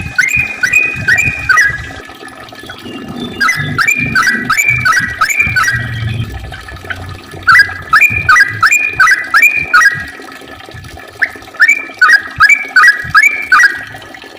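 Yellow-vented bulbul singing its rapid chattering song: four bursts of about five to six quick, bright notes each, separated by short pauses of a second or two.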